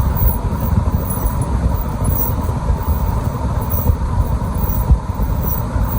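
Loud, uneven low rumble of wind buffeting the microphone.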